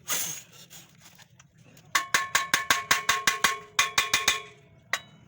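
Hammer rapidly tapping a ringing metal engine part, about six strikes a second in a quick run with a brief pause, then a single strike near the end. A short scraping noise comes just before, at the very start.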